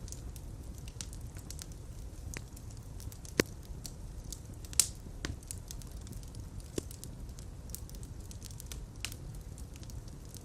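Fire crackling in a fireplace: a steady low rumble of flames with scattered sharp pops and snaps, two of them louder, about a third of the way in and near the middle.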